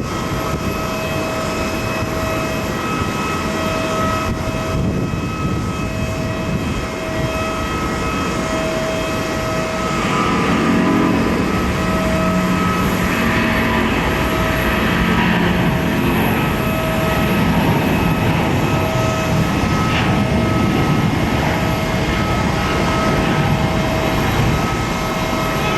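Airliner jet engines running at takeoff power, heard as a steady rush and rumble that grows louder about ten seconds in. A tone keeps breaking in and out over it.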